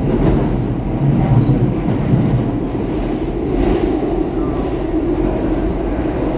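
SEPTA Market–Frankford Line M-4 subway car heard from inside, running at speed between stations in the tunnel: a steady, loud rumble of wheels and traction motors with a low drone.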